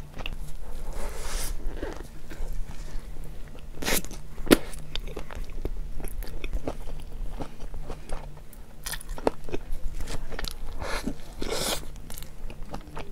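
Close-miked biting and chewing of a hot dog with a snappy-skinned sausage in a soft bun: wet mouth clicks and a string of short crunches and bites.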